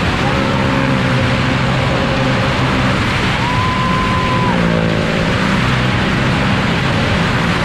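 Engines of several cars and motorcycles circling the vertical wall of a well-of-death pit, a loud, steady engine drone with several pitches layered together. About three seconds in, a steady high tone sounds for about a second.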